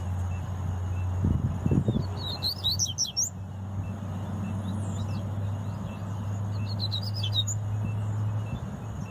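Double-collared seedeater (coleiro) singing two short bursts of rapid high chirping song, about two seconds in and again about seven seconds in, over a steady low hum. A few low thumps come just before the first burst.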